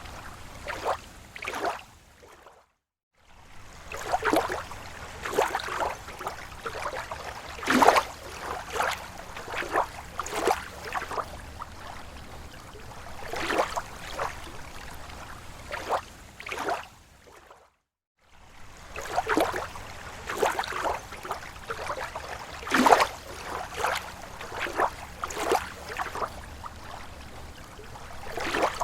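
Small waves lapping against a lake shore: irregular slaps and splashes of water. There are two brief gaps of silence, about three seconds in and at about eighteen seconds.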